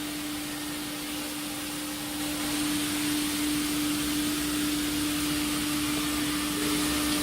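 Steady running noise of a CNC router's machinery: one constant hum-tone with a hiss over it, getting a little louder about two seconds in.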